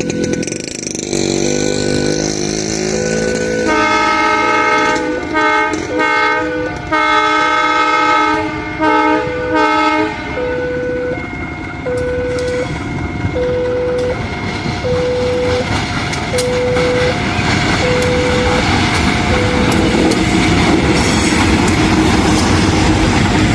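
A level-crossing warning alarm repeats a two-note tone about once a second throughout. A diesel locomotive blows its horn in several short and long blasts from about 4 to 10 seconds in, and after that the passing train's noise rises steadily.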